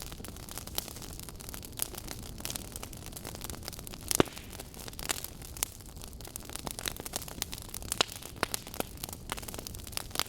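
Wood fire burning, logs crackling with frequent sharp pops over a low steady rush of flames; the loudest pops come about four seconds in and again about eight seconds in.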